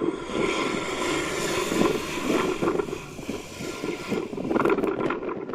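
Strong wind buffeting the microphone over the steady whine of a jet airliner's engines as it comes in to land in gusty crosswind.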